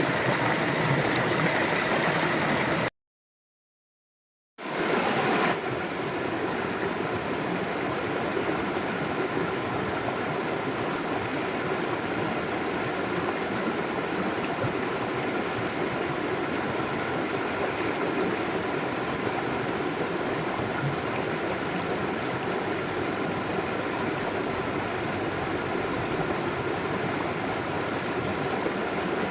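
River water flowing with a steady rushing sound. About three seconds in it cuts out to silence for about a second and a half, then resumes slightly softer.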